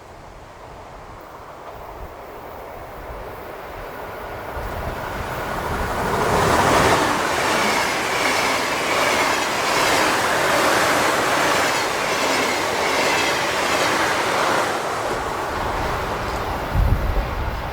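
An electric train passing close by on the track. Its wheel and rail noise builds over the first six seconds, stays loud for about eight seconds, then begins to fade.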